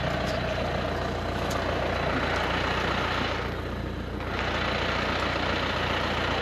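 An engine running steadily with a low hum, most likely the vehicle moving the boat. The higher part of the sound dulls briefly about three and a half seconds in.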